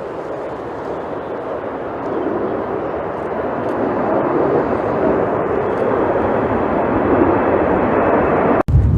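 Jet airliner on approach, its engine noise growing steadily louder. It cuts off abruptly near the end, and low wind buffeting of the microphone follows.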